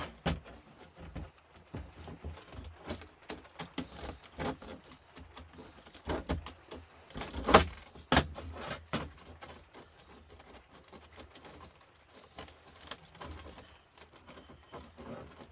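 Metal scrap from a copper-aluminium radiator being worked by hand: irregular light metallic clinks, clicks and rattles, with two sharper knocks about halfway through.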